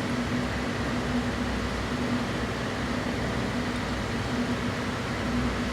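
A steady mechanical hum from a running machine, with a low droning tone that swells and fades every second or so.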